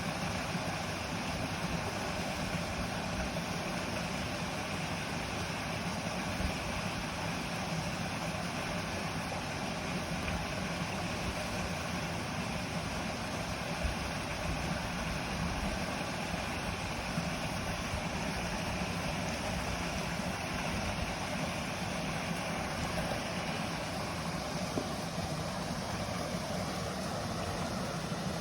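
A mountain stream rushing steadily, with a faint tick now and then.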